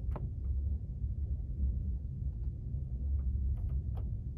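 Low, steady rumble of a moving couchette car heard from inside its compartment, with scattered light clicks and knocks from the running gear and fittings, a few of them close together near the end.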